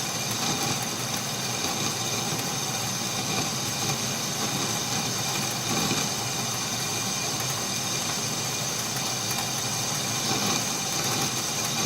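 Atlas metal lathe running steadily while a small boring bar takes a light cut inside a bore: an even machine noise with a steady high tone over it.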